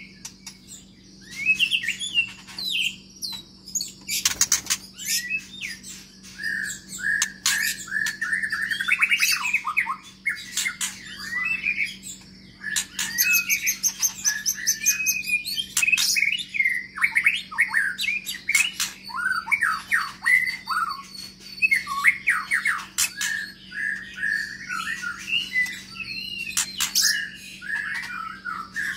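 White-rumped shama singing a continuous, varied song of whistled phrases and rapid trills, with sharp clicks scattered through it. A faint steady hum runs underneath.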